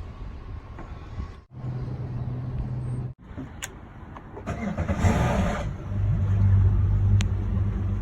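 An engine running with a steady low hum, in short clips cut together. Near the middle there is a loud rushing noise for about a second, then the engine hum comes back louder and steady.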